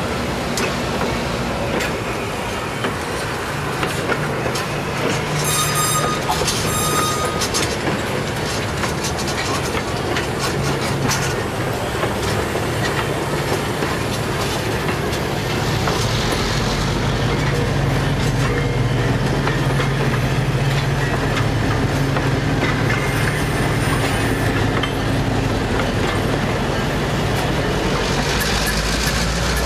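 A passenger train's cars and caboose rolling slowly past at close range, with steady wheel-on-rail rumble and clatter. Two brief high squeals come about six and seven seconds in, and a low steady hum grows in from about halfway through.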